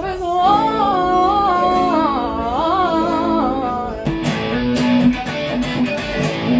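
A voice singing a held, wavering melody over guitar, giving way about four seconds in to guitar strumming, a run of chord strokes.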